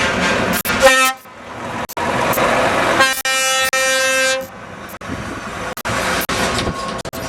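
Truck air horns: a short blast about a second in, then a longer blast of about a second and a half starting around three seconds, over the running of truck engines and road noise.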